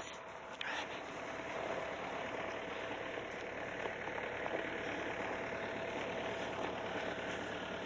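An engine running steadily at idle, a continuous mechanical drone.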